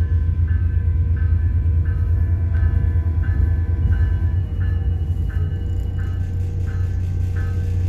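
Steady low rumble of a WES commuter train running, heard from inside the car, with a warning bell dinging about one and a half times a second throughout.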